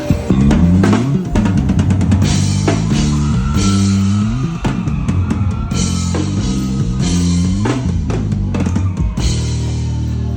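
Live band playing at a soundcheck: a drum kit with kick and snare hits over a deep bass line that steps up and down in pitch.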